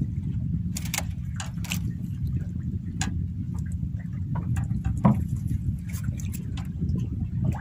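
Steady low rumble on a small boat at sea, with water lapping and scattered short splashes and clicks, one louder knock about five seconds in.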